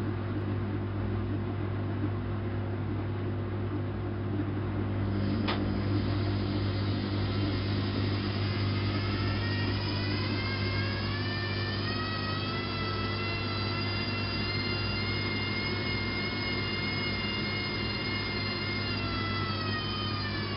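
Bosch WFK 2431 front-loading washing machine running, with a steady low hum. A single click comes about five seconds in. Later the drum motor's whine climbs in pitch as it speeds up, holds steady for several seconds, then starts to fall as it slows near the end.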